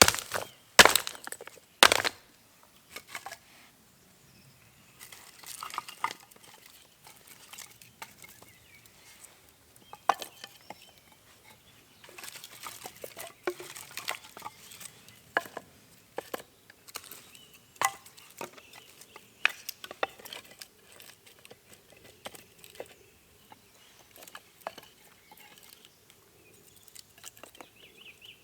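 Irregular rustling, crinkling and light clicks of things being handled, with two sharper knocks about one and two seconds in.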